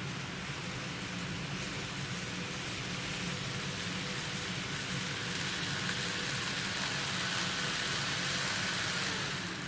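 N-gauge model train running on the layout's track: a steady rattling hiss of wheels on rails with a faint motor whine that drops in pitch near the end.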